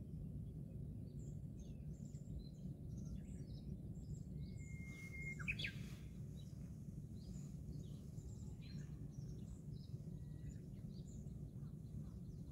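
Birds chirping faintly in short calls, with one longer whistled note about five seconds in, over a steady low background rumble.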